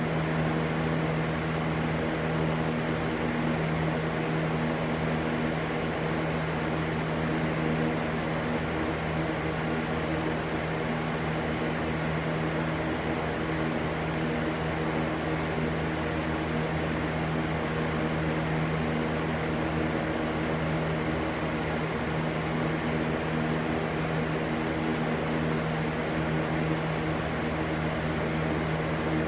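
Electric fan running steadily: an even rushing noise over a constant low motor hum.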